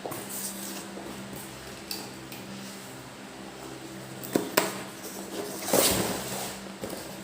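Packaging and a plastic desk lamp being handled while being pulled out of its box: scattered light taps, two sharp knocks close together past the middle, then a brief scraping rustle.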